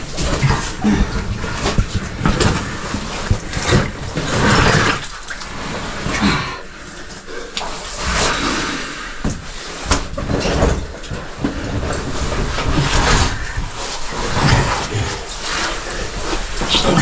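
Irregular scraping and rustling of a caver crawling through a low, tight cave passage, with clothing and gear rubbing and knocking against rock.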